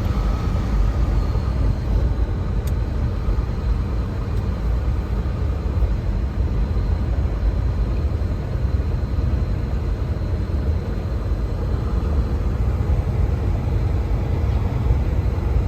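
Steady road and engine noise heard from inside the cab of a truck moving along a snowy highway, deep and even, with no sudden events.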